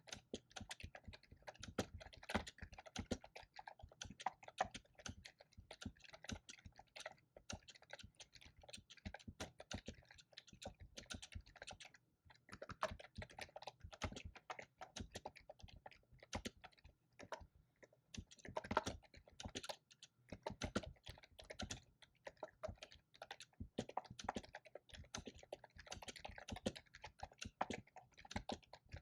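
Typing on a computer keyboard: rapid, uneven runs of key clicks with brief pauses now and then.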